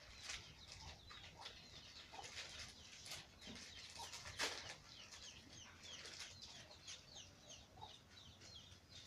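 Faint background chickens: short, high peeps that slide down in pitch and repeat a few times a second, with scattered light clicks.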